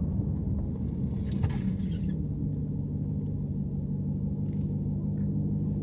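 Car engine and road noise droning steadily inside a moving car's cabin, with a brief hiss about a second and a half in.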